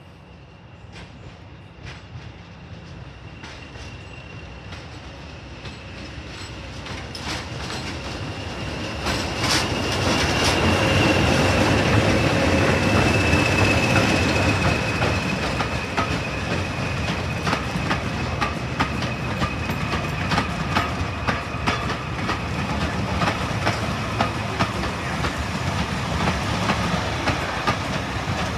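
Diesel-hauled train approaching and passing, growing louder to a peak about ten seconds in, with its wheels clicking over rail joints and a thin high wheel squeal against the rails.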